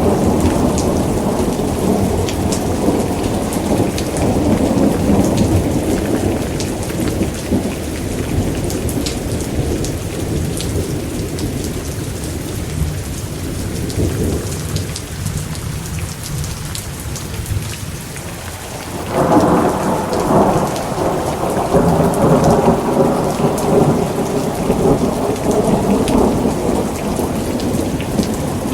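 Thunderstorm: steady heavy rain with rolling thunder. The rumble dies away through the middle, then a new peal of thunder breaks in suddenly about two-thirds of the way through and rolls on.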